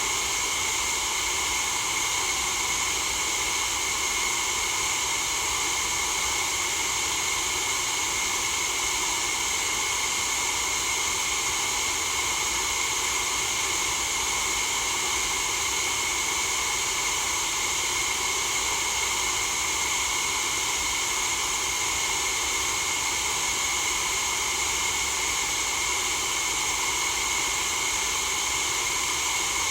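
Steady, unchanging white-noise hiss, brightest in the high range, with no breaks or events.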